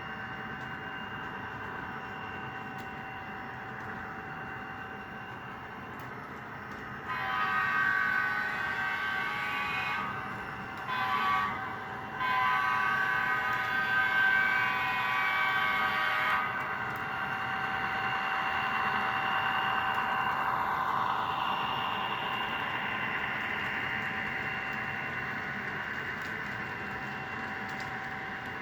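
Sound-equipped HO-scale ScaleTrains SD40-2 model locomotive playing its diesel engine sound through its small onboard speaker. About seven seconds in, the horn sounds three times: long, short, then long. After that the engine sound swells and fades back down.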